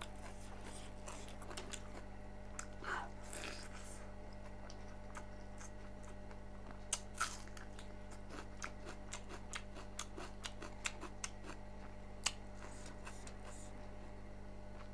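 A person chewing pork close to the microphone: faint, scattered wet mouth clicks, with a few louder ones about seven, ten and twelve seconds in, over a steady low electrical hum.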